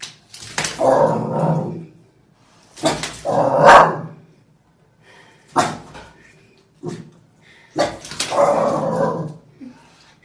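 A dog barking in three drawn-out, loud bouts, with a few short sharp sounds in between.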